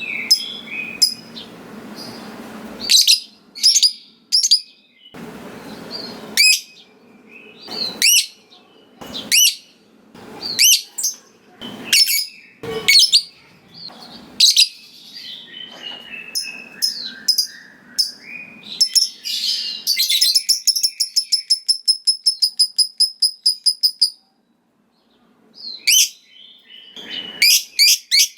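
Lovebird calling in sharp, high chirps. About two-thirds of the way through it breaks into a long, fast run of evenly repeated notes, the extended chatter keepers call 'ngekek panjang'. The run cuts off suddenly, and more chirps follow near the end.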